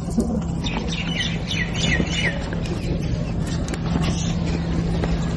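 A bird giving a quick run of about five short, falling chirps about a second in, over a steady low hum and constant background noise.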